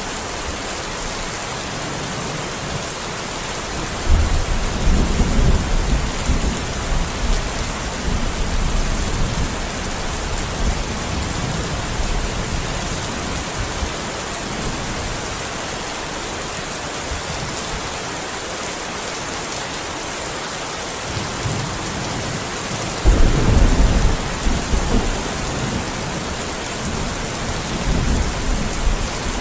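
Steady rain falling, with deep rolls of thunder: one starting suddenly about four seconds in and rumbling for several seconds, a second sharper one about three-quarters of the way through, and a fainter rumble near the end.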